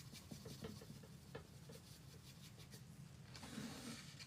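Faint paintbrush strokes on a wooden panel: light ticks and scrapes of bristles, with one longer rubbing stroke near the end.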